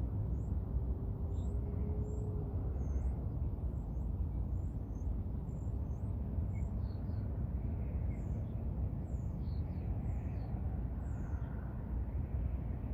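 Small birds chirping in short, high calls, about one or two a second, over a steady low rumble.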